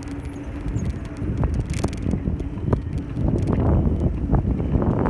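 Wind buffeting the microphone on a moving bicycle, with road rumble and scattered clicks and rattles. It grows louder in the second half, and there is a brief hiss about two seconds in.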